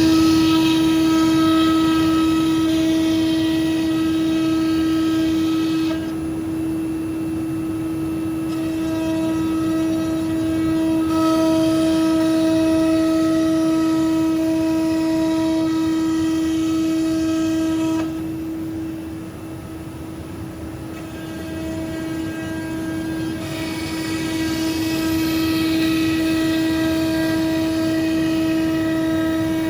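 CNC router spindle whining at one steady pitch while the bit cuts plywood, with a high hiss of cutting over it. Twice the hiss drops away for several seconds while the spindle whine carries on, then it returns.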